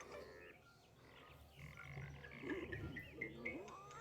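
Cartoon animal characters making short, squeaky, warbling vocal noises without words, with a few brief chirps.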